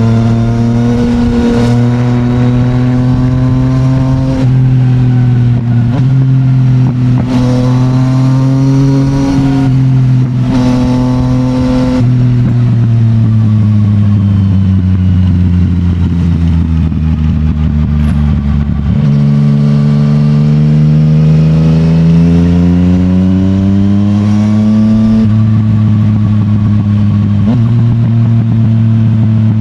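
Yamaha MT-09's three-cylinder engine running through an Akrapovic full titanium exhaust under way. The engine note climbs with several quick steps in pitch as it shifts through gears, then falls away steadily as the bike slows, before rising again and shifting near the end.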